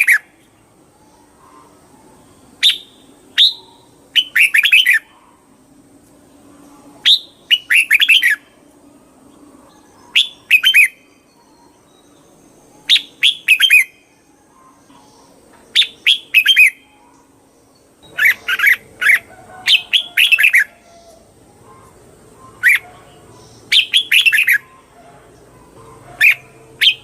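Red-whiskered bulbul singing: short phrases of quick, bright chirping notes repeated every two to three seconds, coming closer together about two-thirds of the way through.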